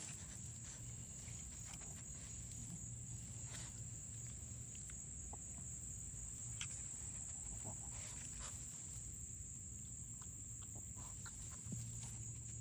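Outdoor ambience of a steady, high-pitched insect drone, with faint chicken clucking and a few soft clicks.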